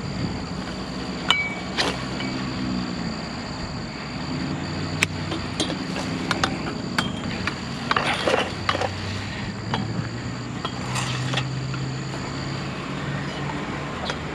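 A vehicle driving, its engine hum shifting in pitch now and then, with scattered sharp clinks and rattles of loose metal.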